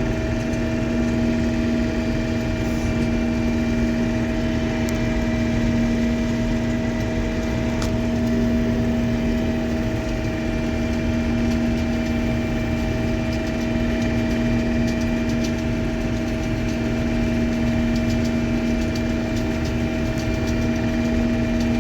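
Combine harvester running steadily while harvesting soybeans, its engine and threshing machinery making an even hum with a few constant tones.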